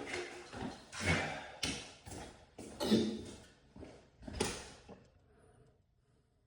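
A series of irregular knocks and clatters that stop about five seconds in.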